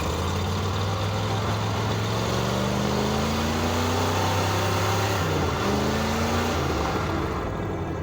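Cold Jeep engine running after a hard start, its speed rising gently, dipping briefly about halfway, then picking up again.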